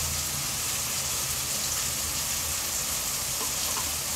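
Sliced shallots and tomato sizzling in hot oil in a kadai: an even, steady hiss.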